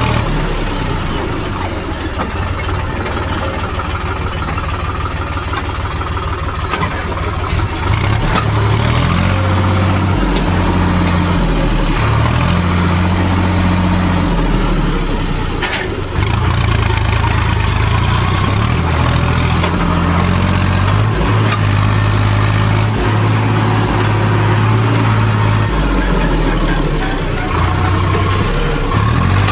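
Tractor diesel engine running under load, its low note stepping up and down again and again as the engine speed changes with the load.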